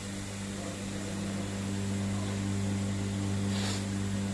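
Steady low mechanical hum with even overtones from the machinery running during a full automatic-transmission fluid exchange, with a brief hiss about three and a half seconds in.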